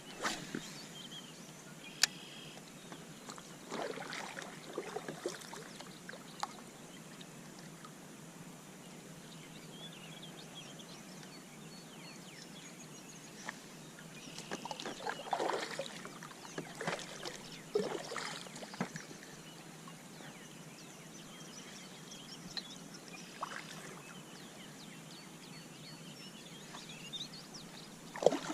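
Water lapping and sloshing around a fishing kayak, with a faint steady hiss and scattered knocks and splashes against the hull.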